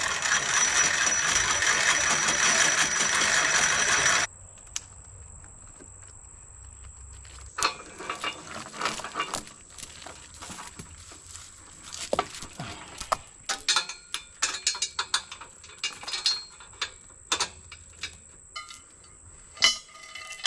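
Hand ratchet winch on a log arch being cranked rapidly: a loud, dense ratcheting rattle for about four seconds that cuts off suddenly. Scattered clanks and knocks follow.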